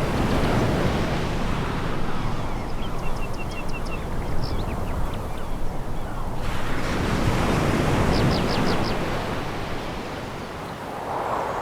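Sea waves breaking on a pebble beach: one surge at the start and another about six and a half seconds in, each fading slowly. Faint short chirps from birds sound above the surf.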